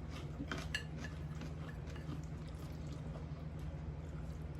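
Faint, scattered clicks and clinks of chopsticks against a dish while a celery salad is eaten, over a steady low hum.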